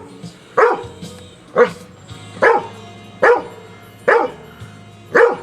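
A dog barking repeatedly, six barks about a second apart, over a faint steady hum.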